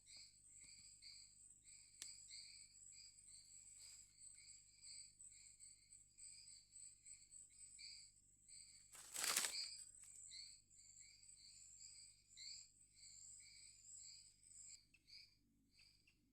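A small forest bird calling over and over in short high chirps, about three a second, over a faint continuous high insect whine. A brief loud rustle comes about nine seconds in.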